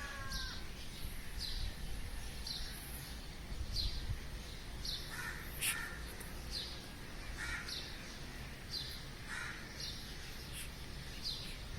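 Birds calling at dawn: a short high chirp repeats evenly about every two-thirds of a second, with a few lower calls in between, over a steady low outdoor rumble.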